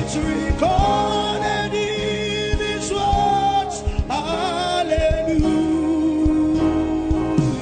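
Gospel worship music: a singer holding long, wavering sung notes without clear words, over steady instrumental accompaniment. The last note is held for about two seconds and breaks off near the end.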